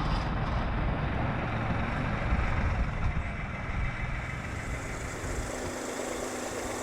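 Farm tractor engine running steadily, its low rumble easing off after about five seconds.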